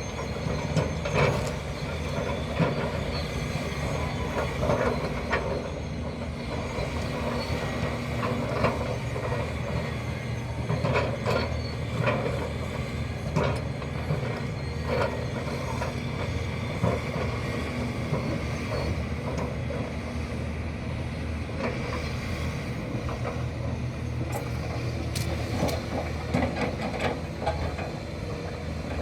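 Excavator's diesel engine running steadily while it loads dump trucks, with irregular sharp metallic clanks and knocks from the machine working.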